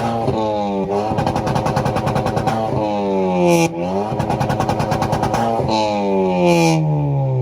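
Tuned car engine revving hard on a two-step launch limiter, popping in a rapid stutter. The revs climb and drop in several pulls, then fall away over the last two seconds.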